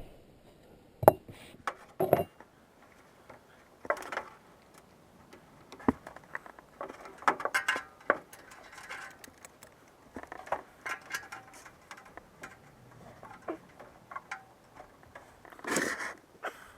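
Scattered clicks, taps and clinks of hand tools and small metal parts being handled at a furnace, with a louder clatter near the end.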